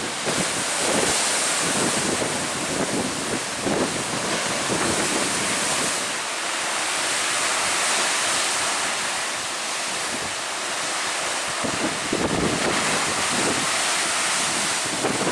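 Lake Superior waves breaking on the shore in a steady rushing surf, mixed with strong wind that buffets the microphone in gusts.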